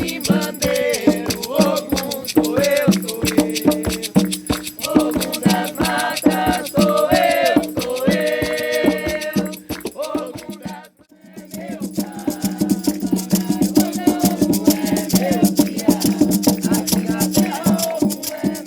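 Voices singing over a rattle shaken in a fast, steady rhythm. The sound drops out briefly about eleven seconds in, then resumes with more held notes over the same shaking.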